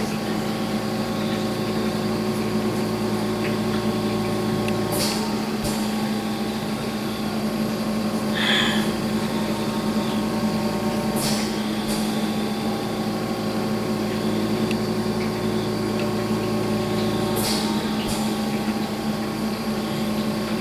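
Steady machine hum with several steady tones, broken by a few short light taps.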